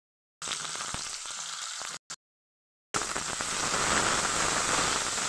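Hot oil sizzling in a kadhai with whole dried red chillies and bay leaves. After a gap of dead silence about two seconds in, a louder, fuller sizzle comes in as sliced onions and green chillies fry.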